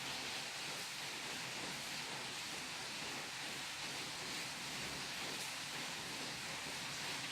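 Steady background hiss with no distinct clinks, knocks or other events.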